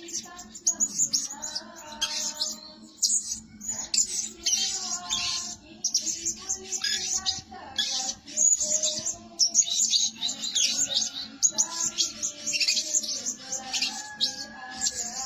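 Blue-crowned hanging parrot calling: rapid, shrill, high-pitched chirps repeated over and over, in quick strings with short gaps.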